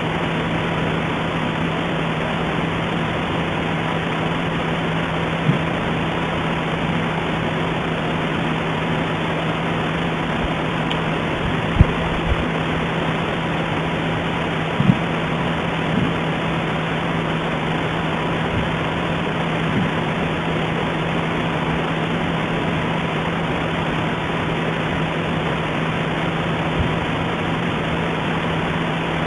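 Steady, even hiss with a constant low hum underneath and a few faint clicks: the background noise of a remote webcam's audio feed.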